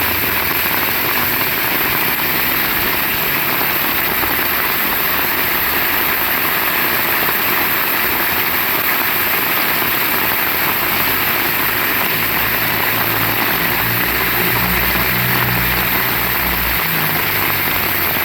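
Heavy rain falling, a steady dense hiss. A low rumble rises underneath about two-thirds of the way in and fades near the end.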